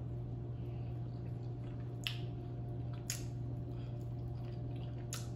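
Wet mouth sounds of eating rotisserie chicken by hand close to the microphone: three short, sharp wet smacks about 2, 3 and 5 seconds in. They play over a steady low electrical hum.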